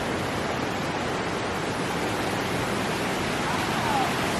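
Waterfall: rushing, falling water making a steady, even noise.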